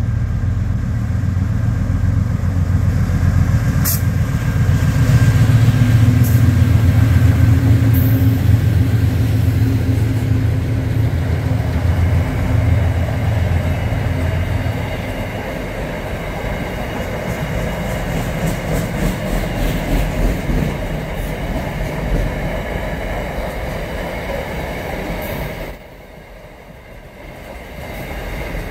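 A diesel-hauled container freight train passes close by. The locomotive's heavy engine drone is loudest in the first half. The rumble and clatter of the container wagons rolling past follow it, with a brief sudden drop in level near the end.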